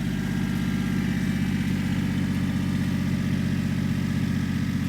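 Mini fire truck giving off a steady, even low drone with a fast pulsing flutter, started just after someone asks for the siren.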